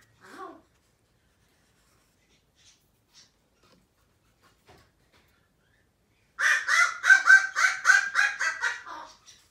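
A bird calling outside: after a faint call near the start, a quick run of about a dozen short calls at roughly five a second begins about six and a half seconds in and lasts nearly three seconds.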